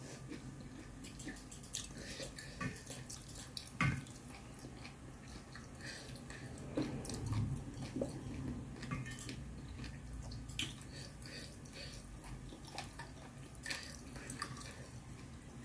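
A person eating mala hotpot with noodles and vegetables: mouth sounds of chewing, with scattered small clicks and taps of utensils against a bowl, the sharpest about four seconds in.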